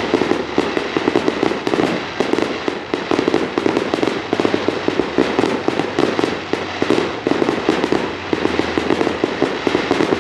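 Fireworks going off in rapid succession: a dense, continuous volley of bangs and crackling pops, many a second.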